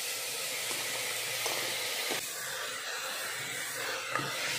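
Chopped tomatoes sizzling as they hit hot oil and fried onions in a pressure cooker, a steady hiss. A few light knocks of a plastic spatula against the pot as they are stirred.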